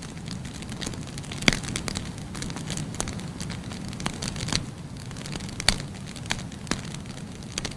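Firewood burning in a fireplace: a steady low rush of flame with irregular sharp crackles and pops, the loudest about a second and a half in and again near six seconds in.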